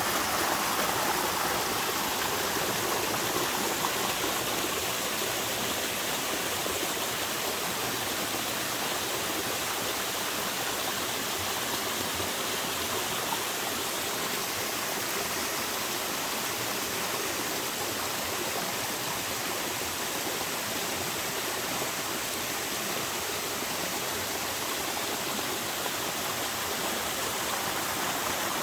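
Small waterfall at low flow, water falling and splashing into a pool in a steady, gentle rush.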